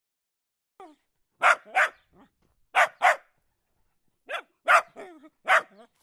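Puppies barking in short, high yaps, mostly in quick pairs, starting about a second in.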